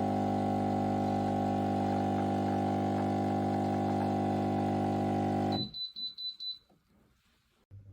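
Espresso machine's 20-bar pump buzzing steadily, then cutting off abruptly near the end, followed by a quick run of short, high electronic beeps from the machine.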